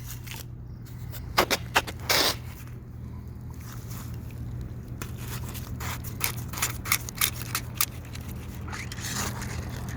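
Hands scraping and pushing sandy, wet soil away from around a pop-up sprinkler body: a scattered run of short gritty scrapes and clicks, over a steady low hum.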